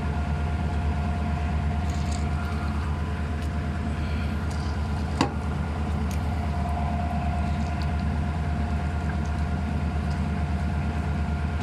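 Diesel engine of a stopped passenger train's locomotive running steadily at idle, a low even hum, with a single sharp click about five seconds in.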